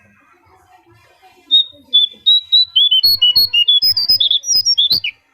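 Konin bird singing: a fast run of short, clear whistled notes starting about a second and a half in, hopping up and down in pitch and climbing higher toward the end.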